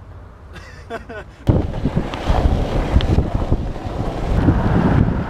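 Longboard wheels rumbling over asphalt as the board gets rolling, with wind buffeting the microphone; the noise starts suddenly about a second and a half in and runs on loud and rough.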